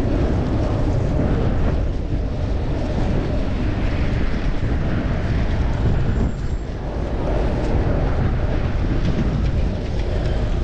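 Steady wind rumble on a chest-mounted action camera's microphone while riding a bicycle, mixed with road noise.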